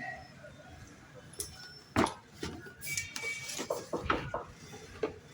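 Hard objects clicking and clattering against each other in a series of short knocks, the loudest about two seconds in, with a quick cluster of clicks from about three to four and a half seconds in.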